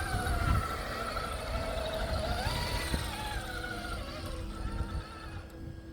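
Axial SCX6 Honcho RC rock crawler's electric motor and geared drivetrain whining as it crawls over rocks, the pitch rising and falling with the throttle and climbing briefly about two and a half seconds in.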